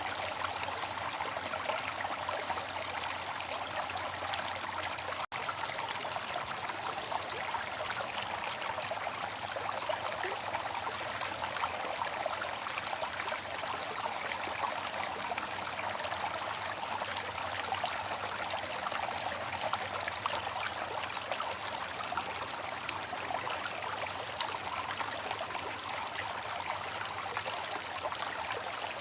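Water fountain running steadily, a continuous rush of falling water with fine splashing detail, broken once by a momentary gap about five seconds in.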